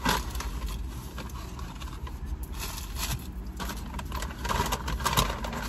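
Rustling and crinkling of paper fast-food packaging and napkins as they are handled, in a series of short irregular scrapes.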